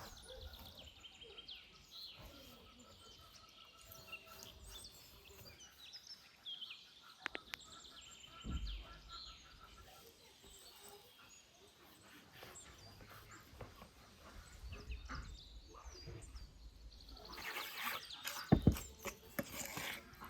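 Birds chirping and calling in short repeated notes, with occasional soft knocks. Near the end comes a burst of rustling and a single sharp knock, the loudest sound.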